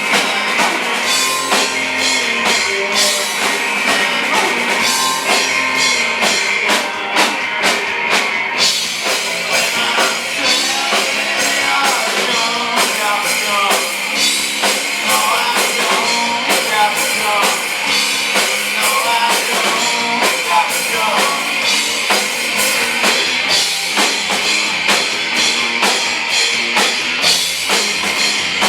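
Live rock band playing: a drum kit keeping a steady, busy beat with cymbals under distorted electric guitar, with a voice singing in places.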